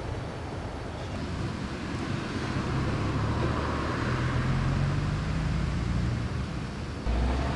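Electric railcar on the Meitetsu Tanigumi Line running with a steady low hum and rumble that grows gradually louder. About seven seconds in the sound steps up suddenly into a heavier, deeper rumble.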